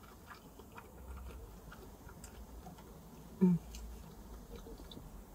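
A person chewing a bite of spinach-and-cheese empanada close to the microphone, making faint soft mouth clicks. About three and a half seconds in there is one brief hum of the voice.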